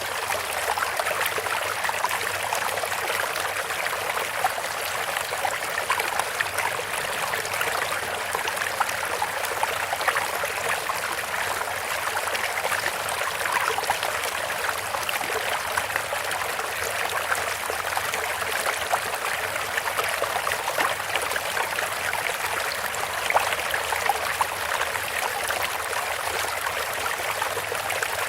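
Bamboo water fountain: water trickling and splashing steadily, a continuous even rush with small splashes throughout.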